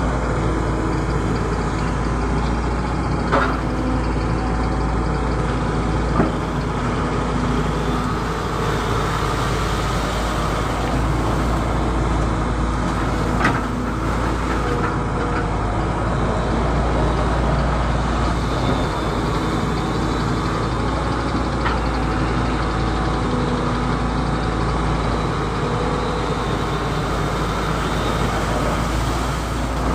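Excavator's diesel engine running steadily under work with a constant low drone, and a few brief sharp knocks, about four in all, from the machine at work.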